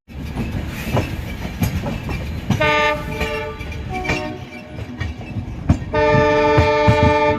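Train horn sounding over the rumble of a moving train: a short blast, a brief one, then a long loud blast from about six seconds in, all held on one chord of several notes. Wheels clack over the rail joints underneath.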